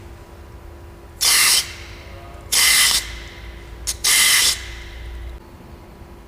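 Three short blasts of pressurised spray, about half a second each and evenly hissing, with a very brief puff just before the third: spraying through the carburetor's jets and passages to clean them. A steady low hum continues underneath.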